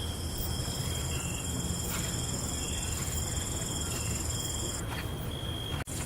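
Night insects, crickets among them, trilling in several steady high notes with short repeated chirps, over a low steady rumble. The highest trills stop shortly before the end, and the whole sound cuts out for an instant near the end.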